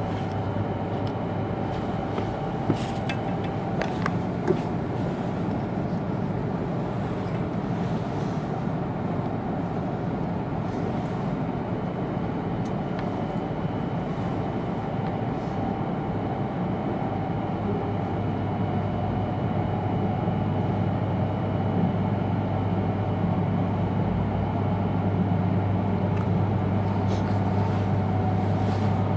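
Cabin running noise of an E2-series Shinkansen car: a steady rumble with a low hum, growing louder in the second half. Two brief clicks a few seconds in.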